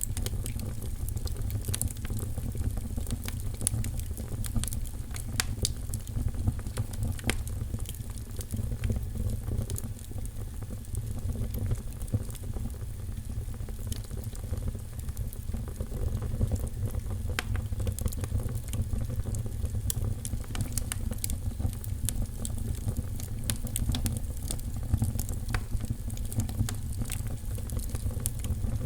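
Fire crackling in a fireplace: frequent sharp pops and snaps scattered over a steady low rumble.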